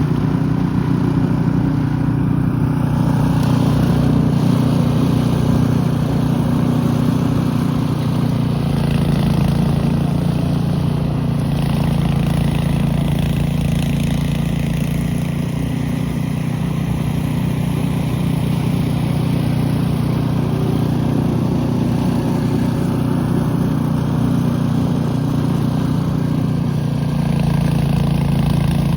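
Snowblower's small gasoline engine running steadily, its note shifting slightly a couple of times.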